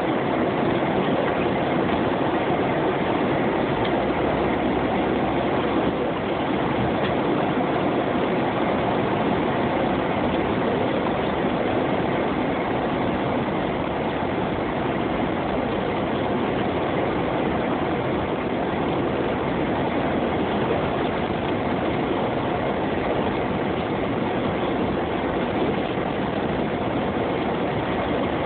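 Steady engine and road noise of a Jeep being driven through snow, even and unbroken throughout.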